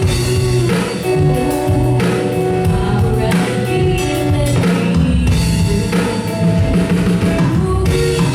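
Live band music: a drum kit keeps a steady beat of about one stroke a second under held chords.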